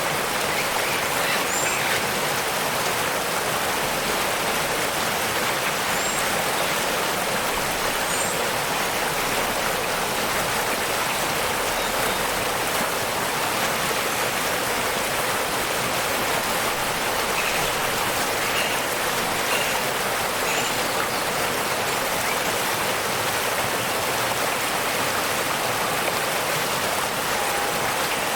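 Waterfall rushing steadily, with a few faint, short, high bird chirps now and then.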